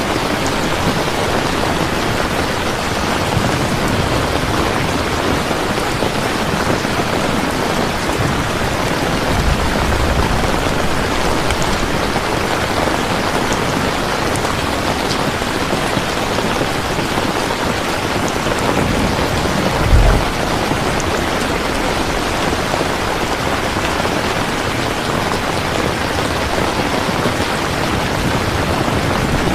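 Steady, dense rain falling, with low rumbles of thunder; the sharpest comes about two-thirds of the way through.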